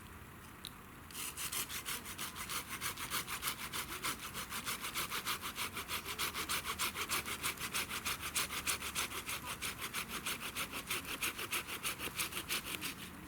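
Hand saw cutting through a piece of firewood, with quick, even back-and-forth strokes, several a second, starting about a second in.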